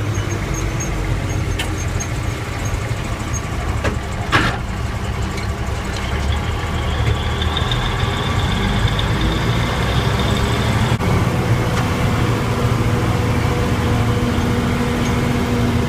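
1971 AM General dump truck's diesel engine running steadily, with a single sharp knock about four seconds in.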